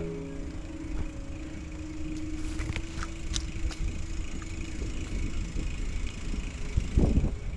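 Riding a bicycle: steady low rumble of tyres and moving air, with a few sharp clicks and rattles in the middle and a louder thump about seven seconds in.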